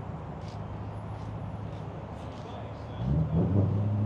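A V8 car engine running with a low, steady rumble that dies down, then grows louder again from about three seconds in, amid people's voices.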